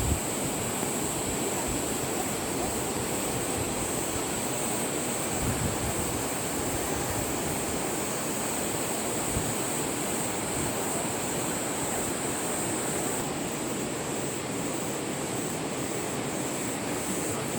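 Steady rushing noise of river water flowing through a rocky canyon, with a constant high-pitched whine above it that fades somewhat about two-thirds of the way through.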